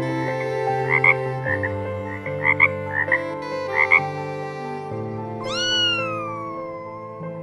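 A frog croaking in short chirpy calls, about six of them, followed a little past the middle by one long, falling cat meow. Sustained background music chords play underneath.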